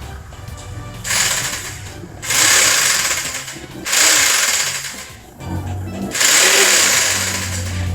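Firo electric jigsaw switched on and off in several short runs of a second or so each, the blade buzzing as it reciprocates, with background music underneath.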